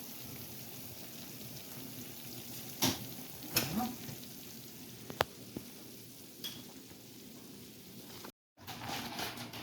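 Food sizzling in a pan on the stove, a steady hiss with a few sharp clinks of a utensil against the pan.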